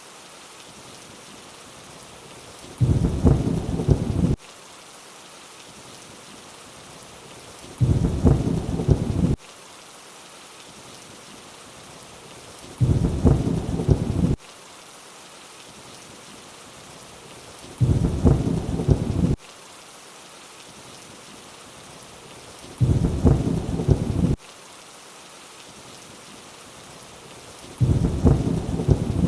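Steady rain hiss with a short, loud, low rumble of thunder about every five seconds, six in all. Each rumble starts and stops abruptly, like a repeating loop.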